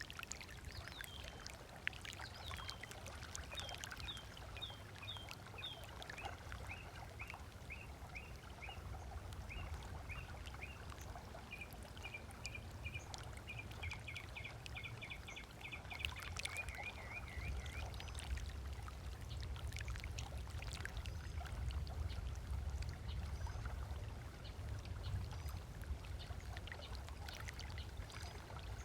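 Small waves lapping on a sandy lakeshore, a steady low wash with faint scattered splashes. Over it a bird calls in a long series of short, quickly repeated chirps that stop a little past halfway.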